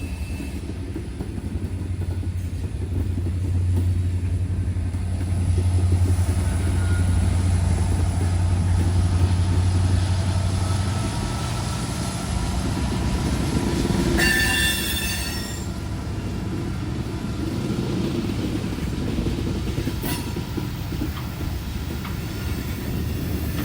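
Diesel locomotive and freight cars passing close by, loudly. The engine's low drone gives way to the rumble of the cars rolling past, with a brief high-pitched squeal about two-thirds of the way through.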